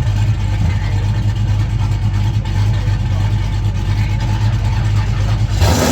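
A car engine idling steadily with a deep, even hum, then a brief loud rushing noise near the end.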